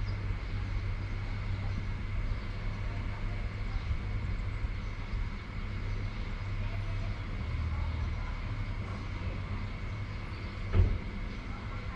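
Steady outdoor rumble with a thin, steady high tone running through it, and one sharp thump about eleven seconds in.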